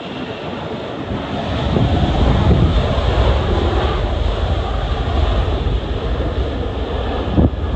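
Jet airliner engines rumbling, growing louder about a second in and staying loud, with gusts of wind buffeting the microphone.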